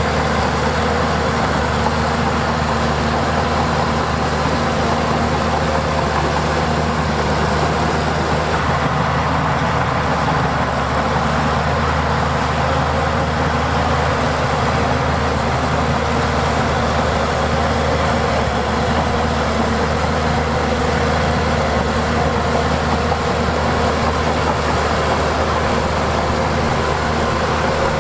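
Diesel engine of heavy earthmoving machinery running steadily at an even pitch, with no revving or let-up.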